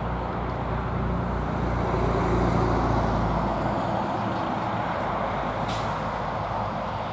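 A motor vehicle driving past on a road, its engine hum and tyre noise swelling about two seconds in and then fading away.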